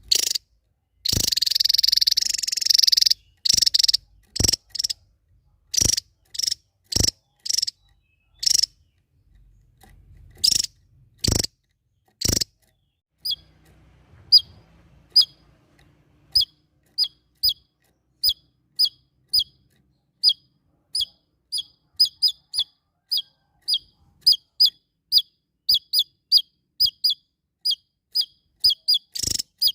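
A small songbird calling. About a second in comes a loud two-second rattling burst, then separate sharp high calls. From about halfway on it gives a steady run of short, high, down-slurred chirps, about two a second.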